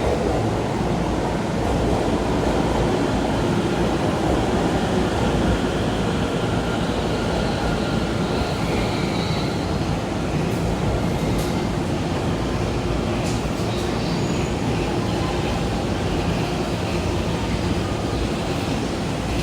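Limited express train running in along a station platform, its wheels and running gear making a steady, even noise.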